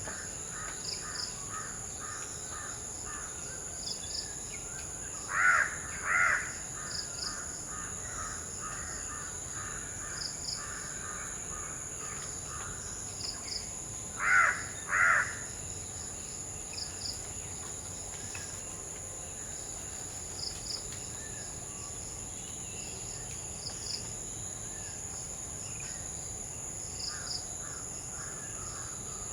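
Crows cawing: two pairs of loud caws, one about five seconds in and one about fourteen seconds in, with fainter runs of quick calls between, over a steady high-pitched insect drone.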